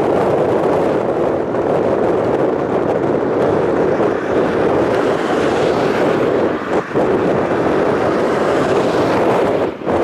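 Strong storm wind blowing across the microphone: a loud, steady rushing noise that eases briefly twice, about seven seconds in and near the end.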